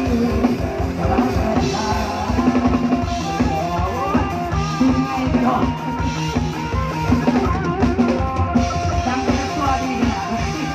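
Live band playing an instrumental passage: the drum kit keeps a steady beat with bass drum under bass and melody instruments.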